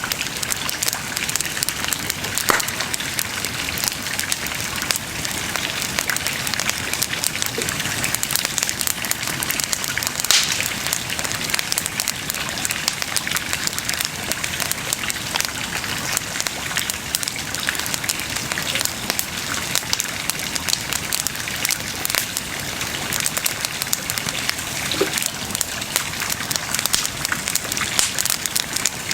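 Wood bonfire burning, with dense fine crackling over a steady hiss and a few louder pops, one about two and a half seconds in and another about ten seconds in.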